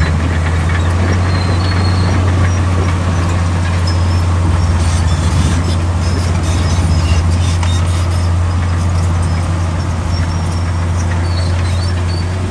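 Heavy diesel earthmoving machinery running steadily under load, a constant low engine hum. Scattered short high metallic squeaks and clicks ride on top of it.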